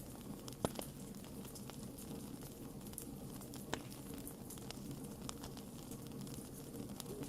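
Burning wood in a campfire crackling, with scattered sharp pops over a low steady rumble of the flames; one louder pop comes less than a second in and another about halfway through.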